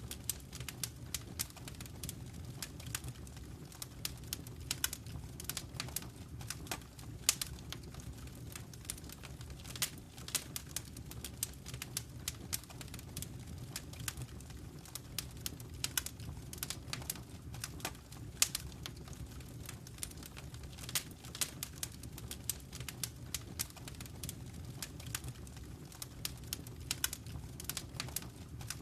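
Fire crackling in a fireplace: a dense, irregular run of sharp pops and snaps over a steady low rumble of the flames.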